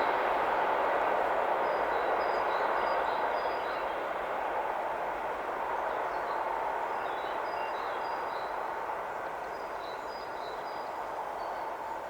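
Electric train running along the line, a steady rumble that slowly fades as it moves away, with birds chirping faintly over it.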